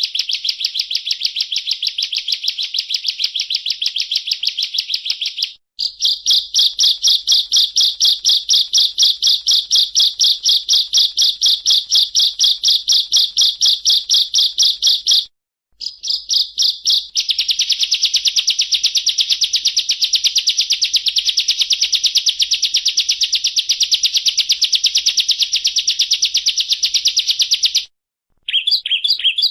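Bar-winged prinia (ciblek) singing a long, rapid, high-pitched trill of evenly repeated notes: the fast rattling 'ngebren' song. It breaks off abruptly three times and resumes each time.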